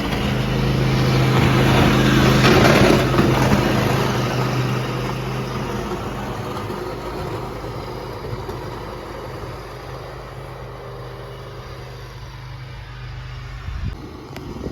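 Engine of a snow-clearing vehicle running steadily, loudest about two to three seconds in and then growing gradually fainter.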